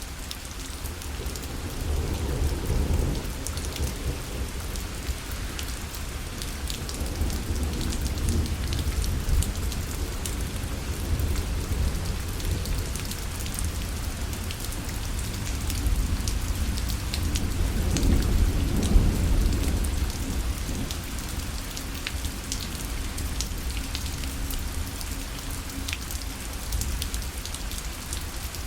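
Steady rain falling on a parasol, with many small drop ticks, and thunder rumbling low twice: once a couple of seconds in and again, longer, a little past the middle.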